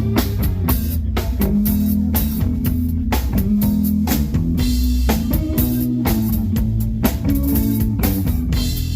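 Live blues band playing: guitar, bass and drum kit with a steady beat.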